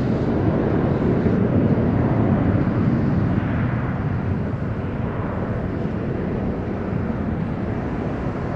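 Jet engines of a Boeing 737-800 airliner. A broad, steady rumble swells over the first few seconds, then slowly fades.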